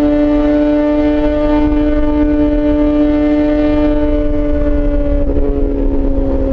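Yamaha XJ6 S inline-four with an SC-Project exhaust running at steady high revs, a sustained tone whose pitch slowly sinks, with a slight change about five seconds in. Low wind rumble runs underneath.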